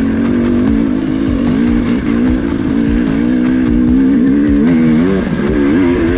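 KTM two-stroke dirt bike engine running under constant throttle changes, its pitch rising and falling as it revs up and backs off, with scattered knocks and clatter. Music plays along with it.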